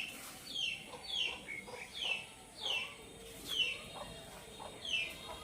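A bird calling over and over: a short, high note sliding downward, repeated at a steady pace of a little more than one a second, with fainter, lower calls beneath it.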